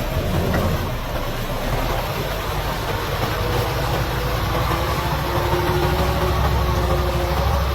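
Off-road vehicle's engine running, a steady low drone.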